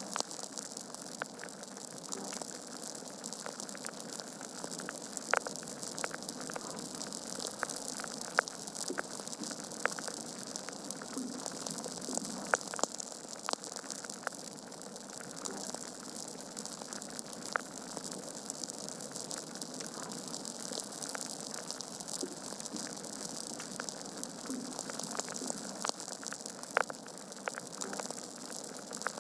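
Wood fire burning in a fireplace: a steady hiss of burning logs with irregular crackles and sharp pops, a few louder pops scattered through.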